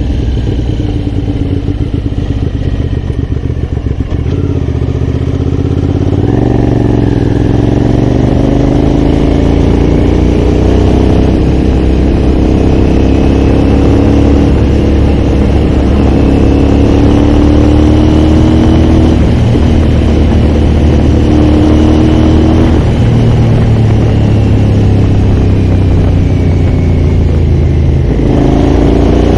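Aprilia Shiver's 90-degree V-twin engine under way. It runs quieter for the first few seconds, then pulls up through the revs, and its pitch drops and climbs again several times as it shifts and changes speed.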